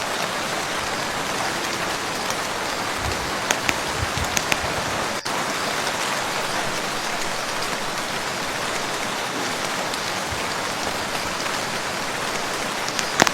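Steady rain falling on a lake's surface, with a few louder, closer drops splashing about three to four seconds in and again near the end.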